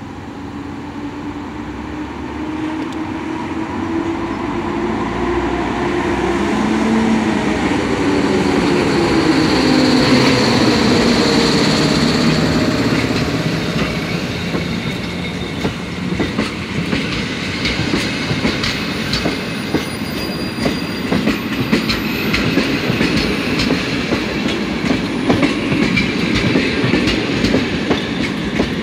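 EU07 electric locomotive pulling a passenger train out of the station and passing close by, its hum growing louder and shifting in pitch over the first ten seconds. Then the coaches roll past with a rhythmic clickety-clack of wheels over rail joints that quickens as the train gathers speed.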